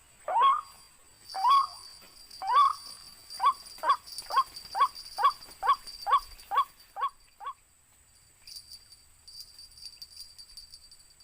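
White-breasted waterhen calling: a few long, loud 'kwak' notes, then shorter notes coming faster and faster, up to about three a second, stopping about seven and a half seconds in. A steady high-pitched buzz runs underneath.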